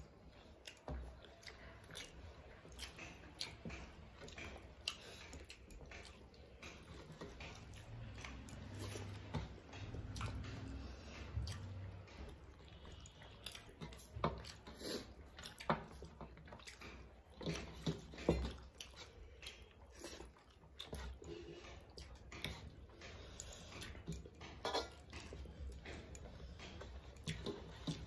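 Chewing and mouth sounds of people eating rice and fish curry with their hands, with irregular soft clicks as the food is mixed and picked up from steel plates.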